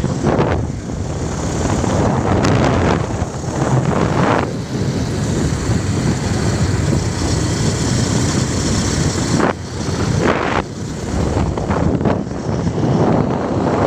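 Wind buffeting the microphone on a moving motorbike, with the bike's running noise underneath, gusting louder and softer.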